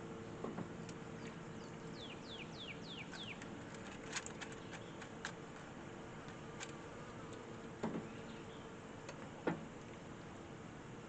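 A bird calls a quick run of five falling whistled notes, over a faint steady hum. A few sharp clicks and knocks sound at intervals, the loudest two near the end.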